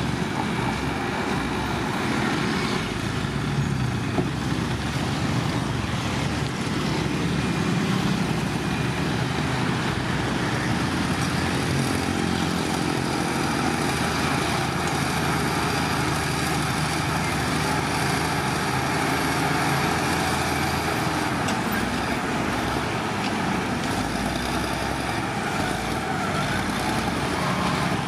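Heavy diesel earthmoving machinery running steadily under load, with the engine note rising and falling slightly now and then.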